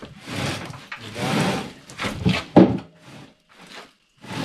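Cast-iron Volvo 240 engine block being pushed, scraping and sliding over a wooden surface in a few rough strokes, with a louder scrape about two and a half seconds in.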